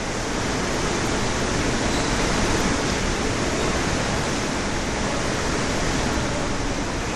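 Storm wind and heavy rain: a loud, steady rushing noise with no breaks, the wind rumbling low on the microphone.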